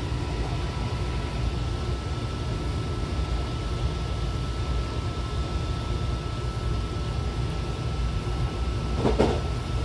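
Odakyu 70000 series GSE train running at a steady speed: a steady low rumble with a faint, steady high tone above it. A brief louder sound about nine seconds in.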